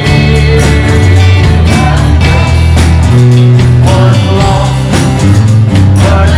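Live church worship band playing loud, with held bass notes under pitched instruments and a steady beat of drum and cymbal hits.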